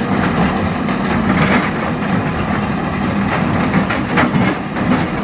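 Hitachi hydraulic excavator's diesel engine running steadily under load, with river stones knocking and clattering against the steel bucket several times, most sharply a little after four seconds in.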